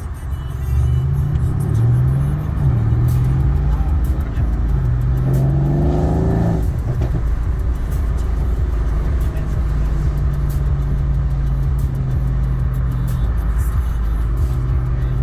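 Mercedes-AMG C63 S engine revving under acceleration. Its pitch climbs and dips in the first couple of seconds, climbs hard to a peak and drops off suddenly about six seconds in, then holds steady before rising again near the end.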